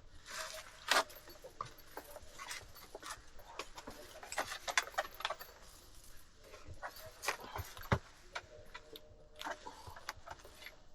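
Irregular scuffs, clicks and rustles of hikers climbing over rock with a rope, with a few sharper knocks.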